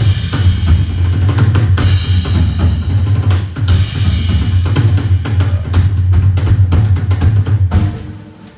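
Live rock drum kit playing a solo: fast, dense bass drum, snare and cymbal crashes, with the drumming stopping near the end.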